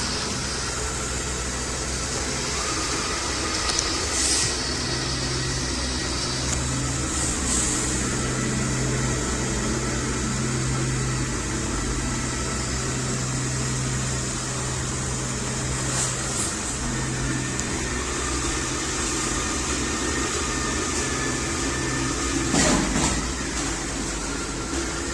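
Xiaomi robot vacuum-mop running: a steady motor hum with brush and suction noise and a few short, louder hissing moments.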